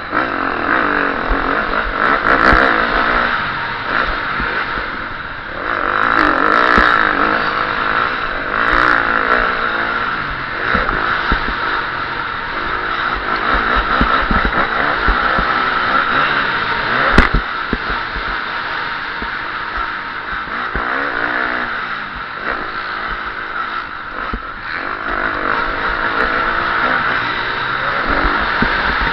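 KTM 350 SX-F single-cylinder four-stroke motocross engine heard on board, revving up and backing off over and over as it is ridden around the track. Scattered knocks and clatter run through it, with one sharp knock about two-thirds of the way through.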